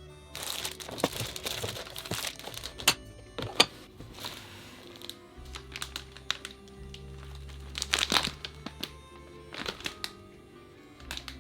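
Plastic packaging crinkling and rustling as items are handled, with several sharp clicks and taps, the busiest stretch in the first two seconds and another about eight seconds in, over soft background music.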